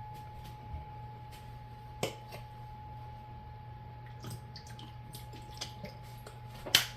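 Seasoning bottles being handled and dashed into a bowl of dressing: a sharp click about two seconds in, light ticks and drips in the second half, and a louder click near the end, over a steady electrical hum.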